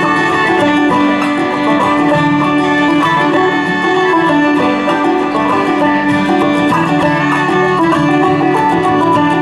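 Bluegrass string band playing an instrumental break between sung verses, the banjo picking steadily over guitar.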